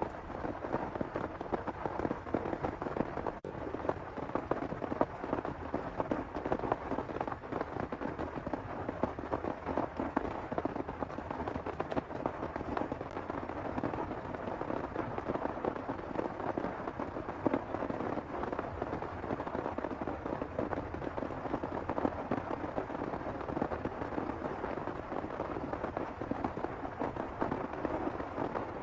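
Heavy rain falling steadily, a dense, even patter of countless drops striking a nearby surface.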